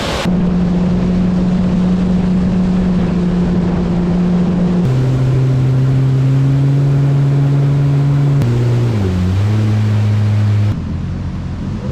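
Jet ski engine running at a steady pitch, in stretches that cut abruptly to a lower steady pitch, then slide lower still as the engine slows. Near the end it gives way to a quieter engine and wind sound.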